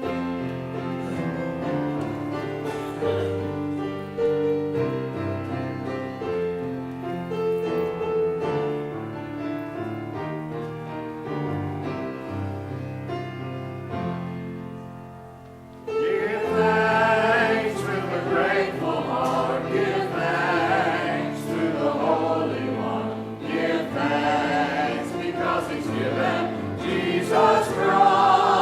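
Church choir singing with instrumental accompaniment. The first half is an instrumental introduction of held chords; after a brief lull the choir comes in about halfway through and sings on.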